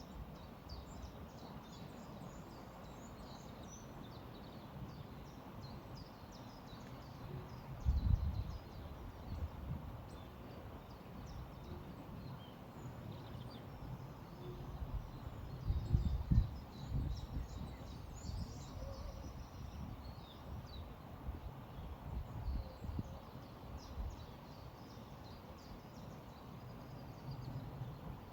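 Small birds chirping and singing over the steady rush of a flowing river, with low wind rumble on the microphone in gusts about eight and sixteen seconds in.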